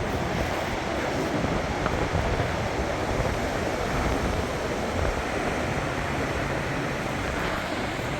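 Strong storm wind blowing steadily through trees, an even rushing noise, with some wind buffeting on the microphone.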